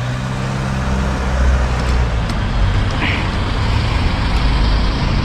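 Steady low rumble of road traffic, with an engine hum underneath.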